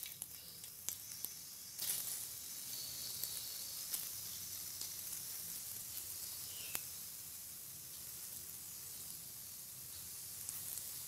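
Sesame-coated coconut-and-jaggery balls sizzling steadily as they deep-fry in hot refined oil in a karhai, with a few light clicks along the way.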